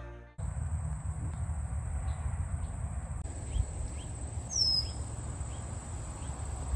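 A bird gives one short falling whistle about four and a half seconds in, over faint short chirps and a steady high insect drone. A low rumble runs underneath.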